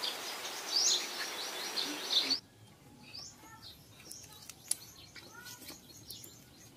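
Birds chirping, a quick run of repeated high chirps over a steady hiss. About two seconds in it cuts off suddenly, leaving much fainter chirps and a few small clicks.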